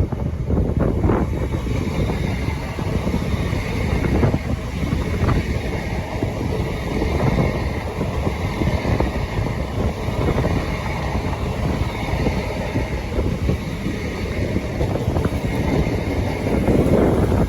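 A train running through a station at speed without stopping, a steady dense rumble and clatter, with wind buffeting the microphone.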